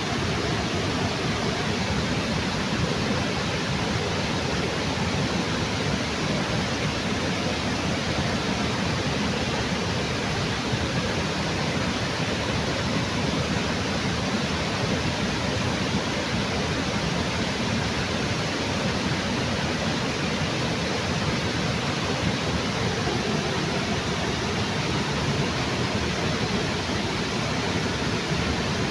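Small waterfall under a bridge: water falling and rushing in an even, unbroken hiss.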